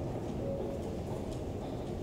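Steady low rumble of background noise, with a brief faint tone about half a second in.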